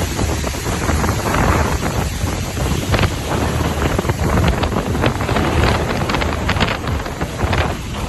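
Strong wind gusting and buffeting the microphone, a loud, continuous roar with sharp gusts coming and going.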